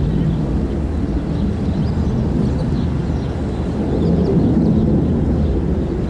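Aircraft engines producing a steady, loud low rumble that swells slightly about two thirds of the way through.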